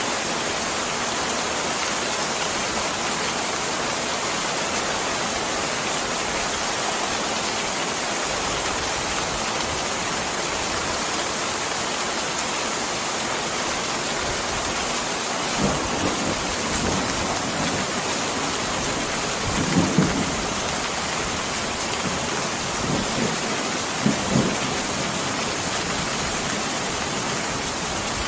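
Steady heavy rainfall, with a few short, low rumbles of thunder in the second half.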